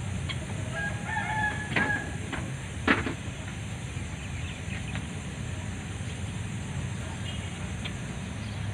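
A bird call lasting about a second, with two sharp knocks near the end of it and about a second later, over a steady low rumble.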